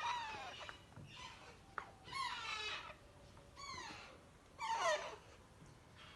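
Parrot chicks begging to be fed: four drawn-out calls, each falling in pitch, the last the loudest, with a sharp click about two seconds in.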